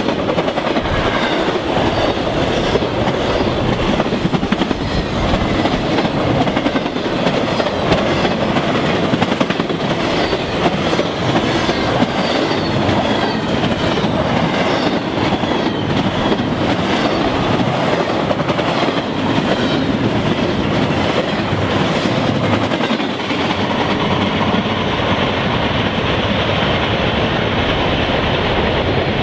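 CSX intermodal freight train rolling past, its wheels clicking steadily over the rail joints under a continuous rumble of the cars. The high end of the noise eases slightly near the end.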